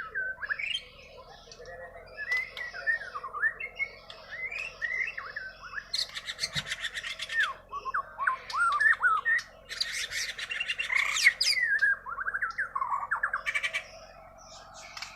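White-rumped shama (murai batu) of the Bornean race singing its natural song, not learned from recorded tutor songs: a continuous run of varied whistled phrases, broken twice by fast rattling trills.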